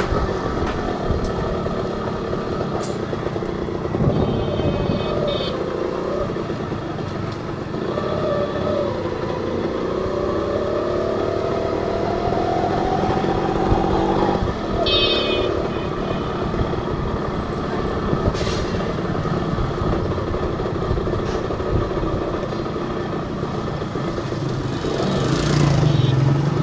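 Honda H100S two-stroke motorcycle engine running on the move with steady wind rush. Its note climbs for several seconds as it accelerates, then drops abruptly about halfway through. A few short, high-pitched beeps sound in between.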